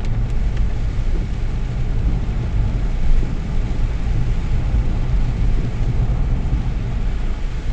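Vehicle driving on rain-soaked roads, heard from inside the cabin: a steady low engine and road rumble with an even hiss above it.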